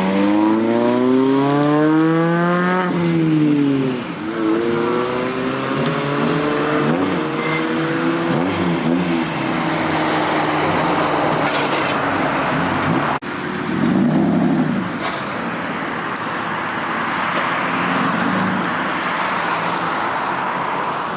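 A car accelerating hard past: its engine note climbs for about three seconds, drops at a gear change, then climbs again more gently before fading into steady traffic noise.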